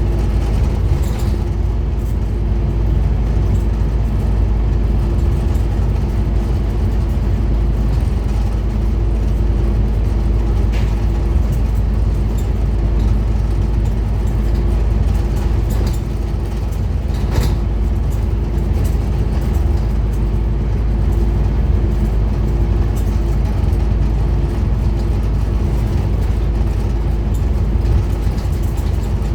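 Scania N230UD Omnicity double-decker bus's 9-litre five-cylinder diesel engine running at steady revs, with a couple of brief rattles.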